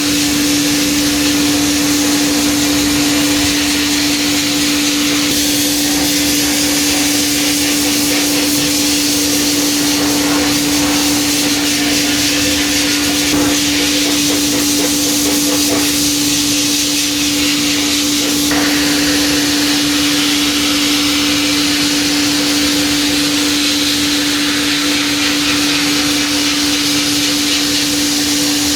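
Sandblasting: a steady hiss of compressed air and abrasive blasting the rust off a steel wrench, over a constant low hum. The hiss shifts in tone a few times.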